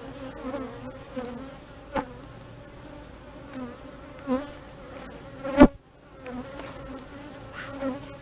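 Honey bees buzzing around an opened hive, the hum wavering in pitch as bees fly close by. A sharp knock comes about two seconds in, and a louder one about five and a half seconds in.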